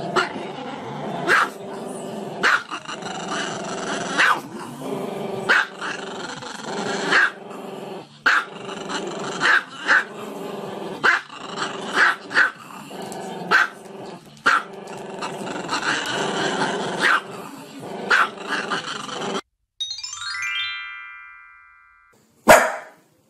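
A small long-haired dog howls and yelps with its head raised, over music, with a sharp yelp about every second. Near the end it stops abruptly, a brief swept electronic tone follows, and then there is a single sharp bark.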